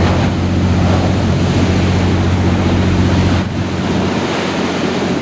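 Wind buffeting the microphone and waves washing, over a steady low drone from a boat's engine. The sound drops in level about three and a half seconds in.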